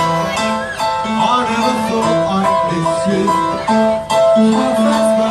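80s cover band playing: a melody of held notes over a moving bass line.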